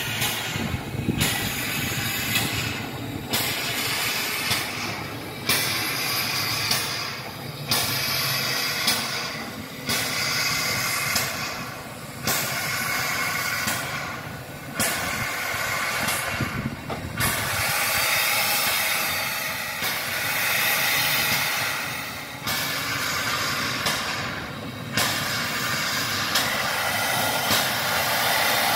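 MÁV class 424 steam locomotive working slowly: steam hisses in regular surges, about one every two seconds, with short breaks between them.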